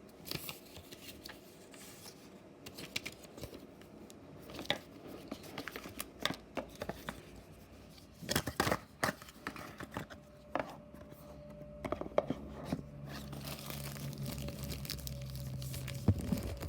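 Hands handling earbud packaging: paper and plastic crinkling and tearing, with scattered clicks and taps. A faint steady hum comes in about two-thirds of the way through.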